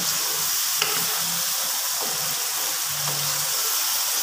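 Potato chunks sizzling steadily as they fry in oily tomato masala in a wok, with a spoon stirring and now and then clicking against the pan.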